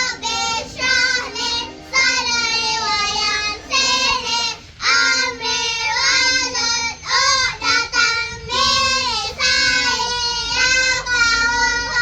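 Young kindergarten children singing a Malay children's song about rain, in short sung phrases.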